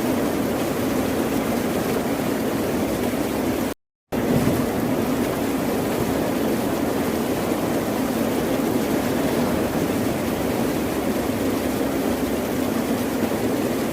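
Steady ocean surf noise, a continuous deep wash of waves without distinct breaks, cut by a brief total dropout to silence about four seconds in.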